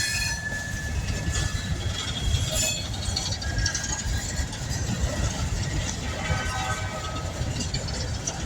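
Long coal train passing, a steady low rumble of the freight cars rolling over the rails, with a thin high tone fading out in the first second or so.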